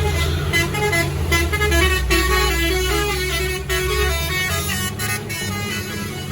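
A long truck's diesel engine rumbling low on the climb, with a melody of short stepping notes playing over it; the deep rumble eases about four and a half seconds in.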